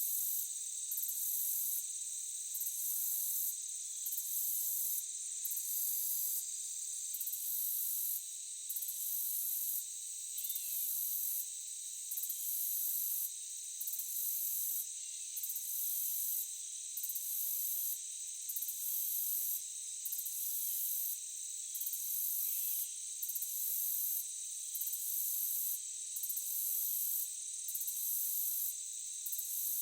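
Insect chorus of crickets and other insects trilling steadily. Over it runs a very high buzzing that stops briefly about every second and a half, and a few faint short chirps come through now and then.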